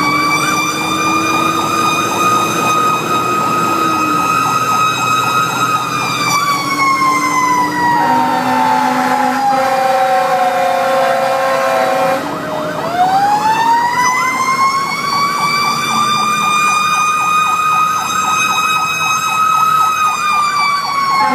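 Fire engine siren wailing. Its pitch holds high, slides slowly down for several seconds, then climbs quickly back up and holds, and it begins falling again near the end. A lower, steady horn tone sounds for about four seconds in the middle, while the siren is falling.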